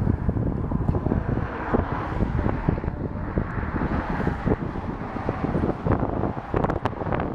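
Wind buffeting the camera's microphone: a loud, gusty rumble that rises and falls unevenly.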